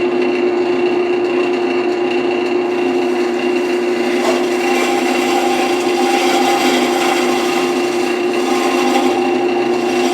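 Wood lathe running with a steady hum while a carbide-insert turning tool scrapes the spinning, still-wet wood, the cutting noise growing rougher from about four seconds in.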